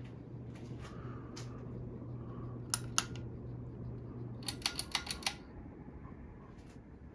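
Harbor Breeze Notus ceiling fan running with a steady low motor hum and faint regular ticking. Two sharp clicks come near the middle, then a quick run of clicks, and with them the hum stops.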